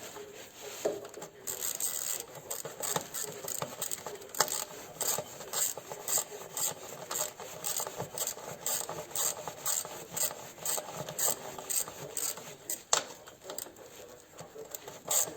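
Repeated rasping strokes of a hand file or abrasive worked back and forth, about two strokes a second, with a sharp click about thirteen seconds in.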